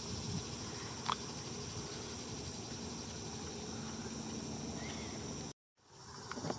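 Outdoor wetland ambience: a steady high-pitched insect drone, with a short bird chirp about a second in and another faint chirp near the end. The sound cuts out for a moment shortly before the end.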